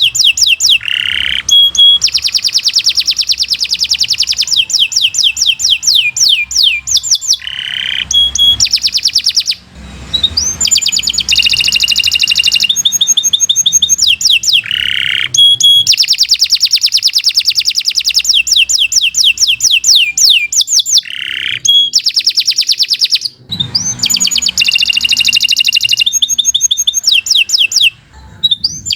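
Domestic canary singing a long, continuous song of fast, high trills and repeated notes, broken only by a few brief pauses.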